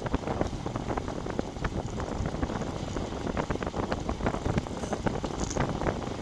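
Wind buffeting the microphone of a bike-mounted GoPro Session on a moving road bicycle: a steady rumble with many small crackles.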